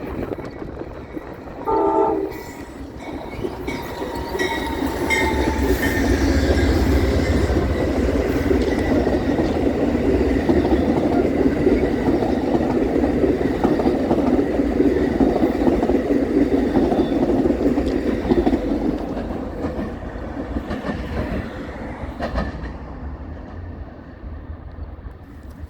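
Amtrak Southwest Chief passenger train led by GE P42 diesel locomotives passing: a short horn blast about two seconds in, then the locomotives and cars going by, growing loud, holding for over ten seconds and fading near the end.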